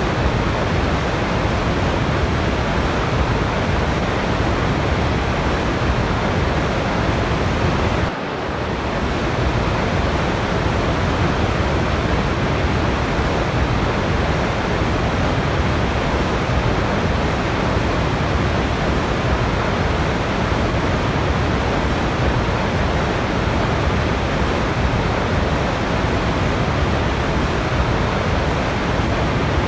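Steady rushing of a waterfall, a dense even roar of falling water with no breaks, dipping briefly in level about eight seconds in.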